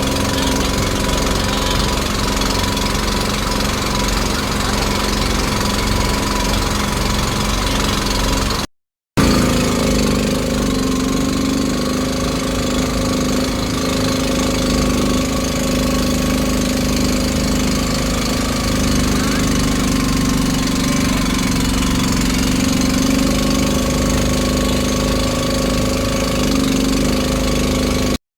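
A boat's engine running steadily under way, cut off briefly about nine seconds in and then running on.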